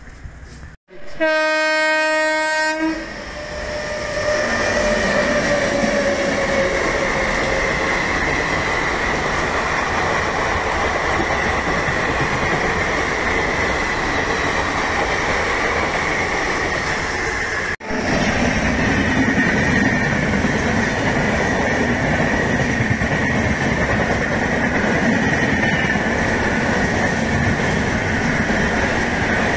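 A train horn sounds one long blast of under two seconds. Then an express train's passenger coaches pass close by at speed: a steady rumble and clatter of wheels on rail with a high steady whine over it. The sound cuts out briefly about eighteen seconds in.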